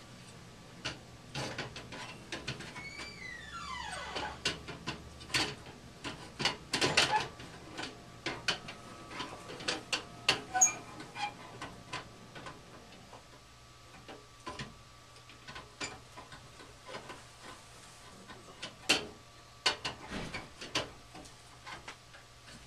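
Scattered clicks, taps and knocks of tools and parts being handled inside a gas furnace cabinet during a service, with one falling scraping squeal about three seconds in, over a faint steady hum.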